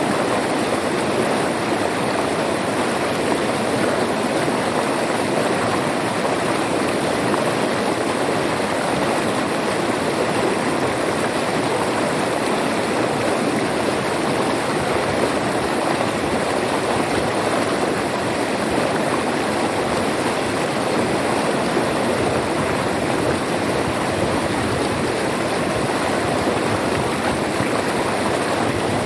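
River water flowing and splashing steadily, a continuous rushing of a stream.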